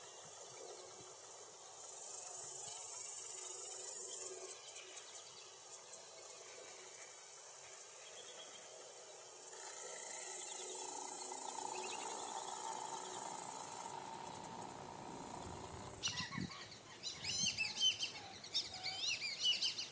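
A high, steady insect drone that swells louder twice, with birds chirping and calling over it from about three-quarters of the way in.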